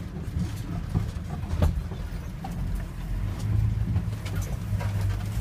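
Toyota Land Cruiser engine running under load, heard from inside the cab, with a few sharp knocks and rattles as the body jolts over rough ground.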